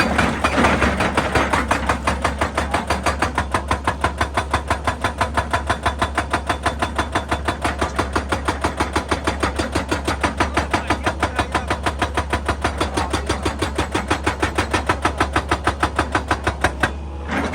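Excavator-mounted hydraulic breaker hammering rock in a fast, even rhythm of about five blows a second, over the low hum of the excavator's diesel engine. The hammering stops shortly before the end.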